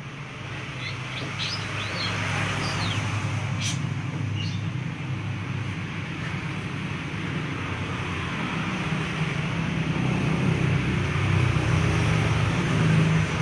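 Steady low rumble and hiss like passing traffic, growing louder toward the end. A few short, high bird calls come in the first four seconds.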